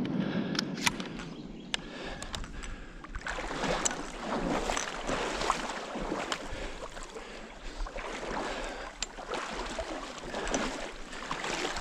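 Water splashing and swishing in uneven surges, as someone wades through shallow water, with a few sharp clicks.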